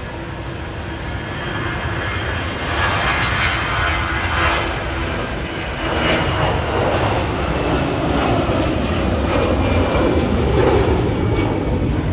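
Airliner engines running close by, a dense roar that grows steadily louder, with a step up about six seconds in.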